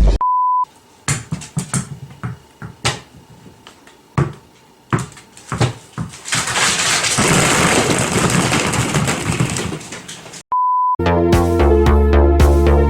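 A short steady beep, then a run of scattered knocks and thuds and several seconds of rushing noise. Another short beep follows near the end, then music with a steady beat.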